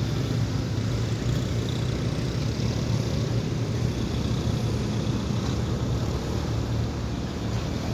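A motor vehicle engine running steadily, a low even hum over road and outdoor noise.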